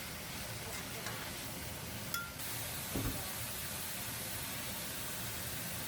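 Food sizzling in a pan: a steady hiss that grows brighter after a sharp click about two seconds in, with a dull thump about a second later.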